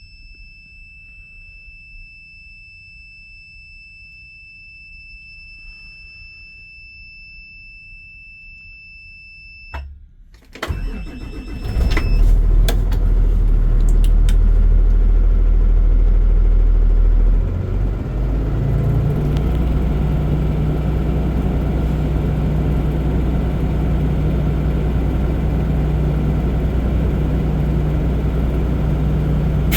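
Cold start of a 2024 Freightliner S2C bus's diesel engine at about −1°F. A steady high dashboard warning tone sounds at first. About ten seconds in the starter cranks briefly and the engine catches, running loud for about five seconds, then drops to a steady idle.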